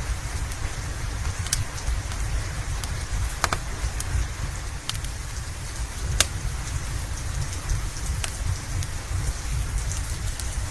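Steady rain hiss over a low rumble, with scattered sharp pops and crackles from a wood fire in a fireplace every second or two.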